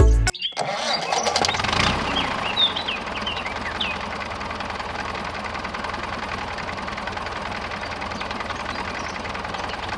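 An engine starts with a short burst of clatter, then runs steadily.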